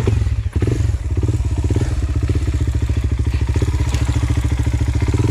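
Enduro dirt-bike engine starting up suddenly and running at a steady idle with a fast, even beat.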